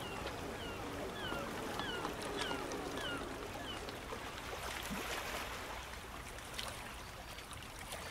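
Outdoor riverside ambience, a steady hiss of moving water, with a bird calling a run of short falling notes, about two a second, that stop about halfway through.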